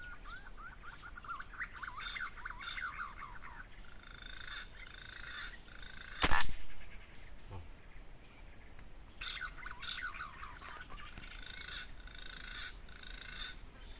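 A single sharp rifle shot about six seconds in, against a steady high insect drone and bursts of rapid chirping calls near the start and again around nine to eleven seconds.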